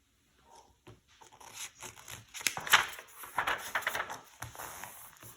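Paper rustling and crinkling in irregular strokes, as a picture book's page is handled and turned.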